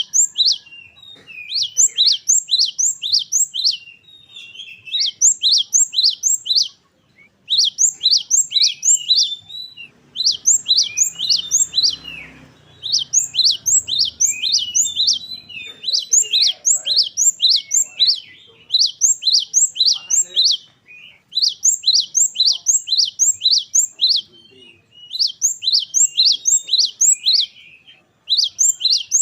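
Gelatik wingko, the cinereous tit kept as a songbird in Indonesia, singing on and on in its rolling style. Each burst is a rapid run of about six to eight sharp, high notes lasting a second or two, and the bursts follow one another after brief pauses.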